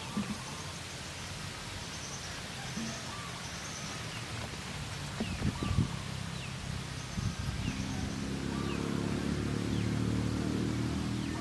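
Outdoor rural ambience: short high bird chirps repeating, a few sharp knocks about halfway through, and a low steady hum that grows louder over the last few seconds.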